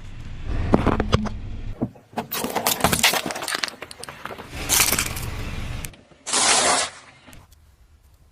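A car tyre rolling over objects and crushing them: a run of sharp cracks and crunches of breaking plastic over a low engine and tyre rumble. A dense hiss about six seconds in sounds like something bursting or spraying under the tyre.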